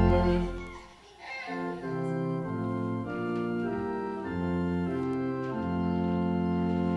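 Church organ: the hymn's last held chord dies away within the first second, then soft sustained chords move from one to the next in steady steps.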